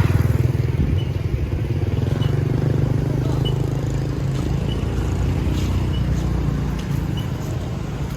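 Motorbike and traffic engines running close by on a busy city street, a steady low rumble that is loudest at the start and eases after about seven seconds.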